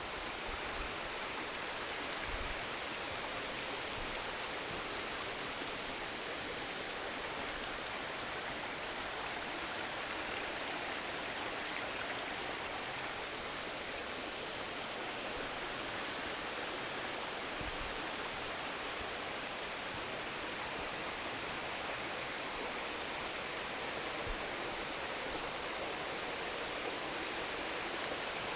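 Steady rushing water, as of a stream.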